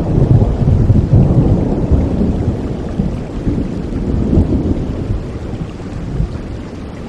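Thunder rumbling over steady rain. The rumble is loudest in the first second or two and slowly dies away.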